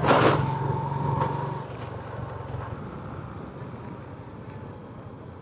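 Motorbike engine running steadily while riding, with a sharp noise at the start and a steady high tone in the first second and a half; the engine sound drops quieter after about two seconds.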